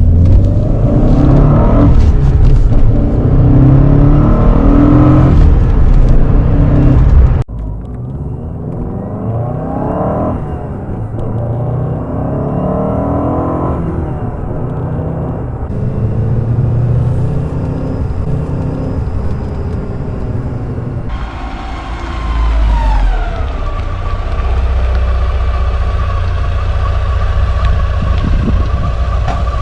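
Turbocharged 2.0 16-valve four-cylinder engine of a 1994 Fiat Coupé revving, its pitch rising repeatedly and loudest for the first seven seconds, then after an abrupt change climbing and falling again. About two-thirds of the way through the revs drop away and it settles into a steady idle with a constant whine over a low rumble.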